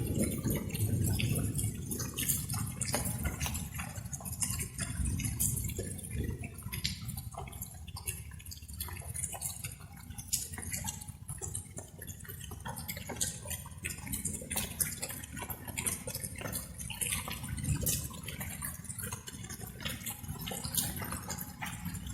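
Light rain falling, with many separate drops dripping and pattering irregularly over a steady low rumble.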